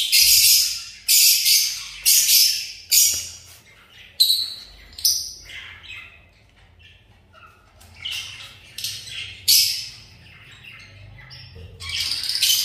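Baby cockatiel giving a string of short, hoarse, hissy calls, about one a second, with a quieter gap near the middle before the calls pick up again near the end.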